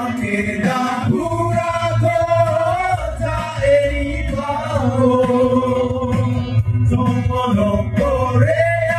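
Music with male singing in long held notes over a strong bass.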